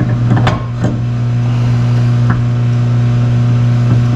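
A few sharp metal clanks and knocks from a turbocharger being handled and fitted onto its mount: a cluster in the first second, then single knocks about two seconds in and near the end. They sit over a steady low hum.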